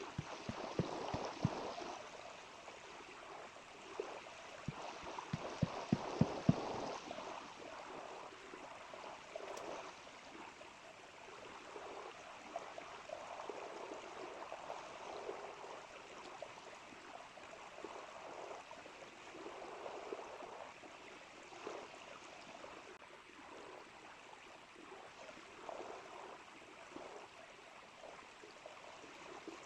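Small river flowing and gurgling steadily. A few sharp taps or knocks about a second in, then a quicker run of louder knocks between about five and six and a half seconds in.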